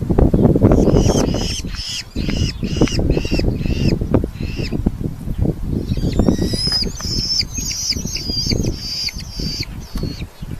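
Red-footed falcons calling at the nest: a run of about eight evenly repeated calls, then a faster, shriller series near the end. Underneath are dense knocking and rustling sounds, wings and movement in the nest box.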